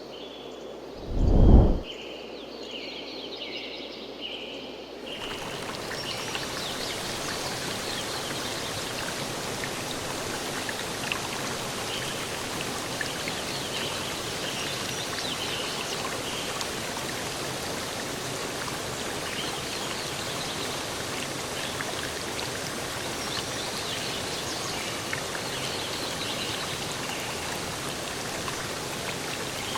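A brief, loud low rumble near the start, then a few bird chirps over a quiet background. About five seconds in, a steady rushing of water comes in and runs on, with birds chirping over it.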